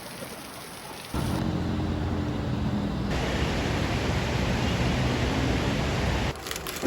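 Steady rushing noise of heavy rain, starting loud about a second in and cutting off near the end, with a low hum under it.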